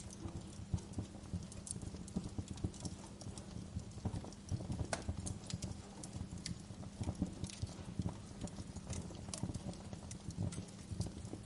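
Wood fire crackling, with irregular pops and snaps over a steady low rumble.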